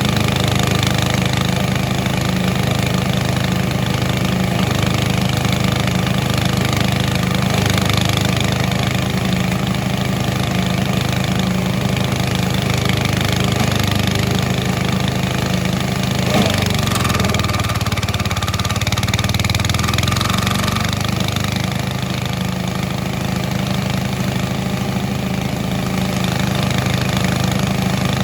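Engine-driven forage chopper (grass and cassava-stalk chopping machine) running steadily with a constant low hum. About sixteen seconds in the note drops and the sound changes for a few seconds before settling back to its steady run.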